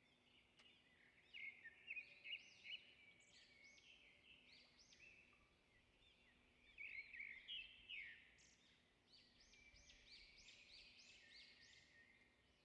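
Birds chirping, faint: many short, quick notes that rise and fall, overlapping throughout and bunching louder a couple of times, over a faint steady hum.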